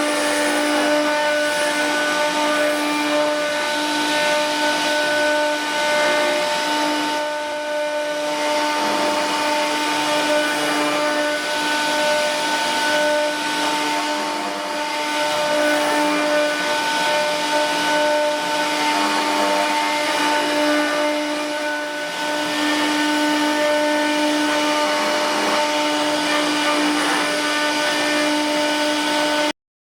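CNC router spindle running with a steady whine over a noisy hiss of cutting, swelling and dipping a little; it cuts off abruptly near the end.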